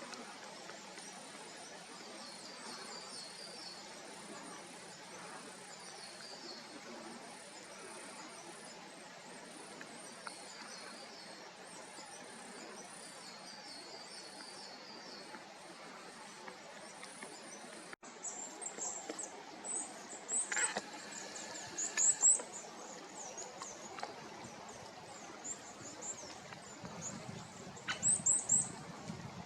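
Small wild birds calling, with thin high call phrases repeating over a faint steady background. About eighteen seconds in the sound cuts abruptly, and louder, sharper chirps follow in short clusters.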